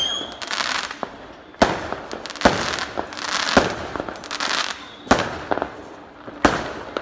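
Aerial fireworks bursting overhead: about five sharp bangs roughly one to one and a half seconds apart, each followed by a crackling hiss from the glittering stars.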